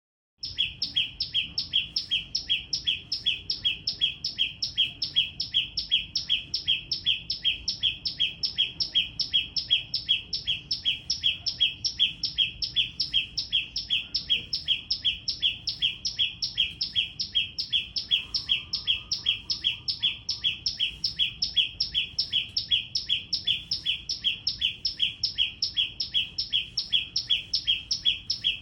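A small bird calling loudly and tirelessly, repeating the same short high note about three times a second without a break.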